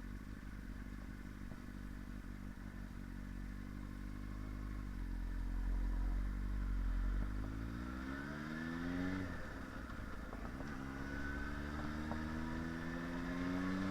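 Yamaha R1's inline-four engine running steadily under way, then climbing in revs twice, with a sudden drop in revs between the two pulls about nine seconds in. Low wind rumble sits underneath.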